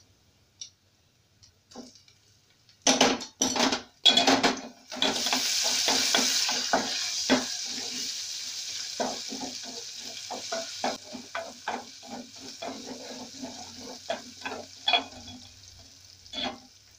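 Ginger and garlic paste going into hot oil and browned onions in an aluminium pot: a few scrapes and knocks, then a loud sizzle from about five seconds in that slowly dies down. A wooden spoon stirs and knocks against the pot throughout the sizzle.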